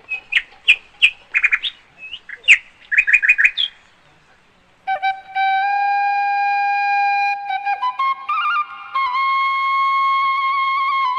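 Birds chirping in quick, short sweeping calls for the first few seconds; after a brief pause, a flute plays slow, long held notes that step up in pitch a few times.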